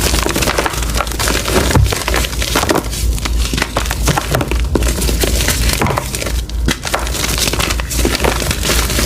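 Reformed gym chalk being crushed, with a dense, continuous crunching and crackling as the pressed chalk crumbles apart.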